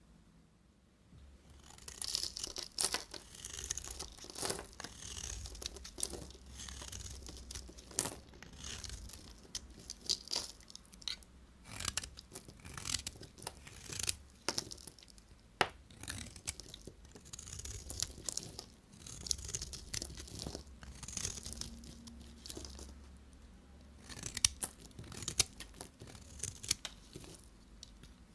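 Knife cutting through bars of soap: repeated crisp scraping strokes with sharp snaps as pieces break off, coming every second or so in an uneven rhythm.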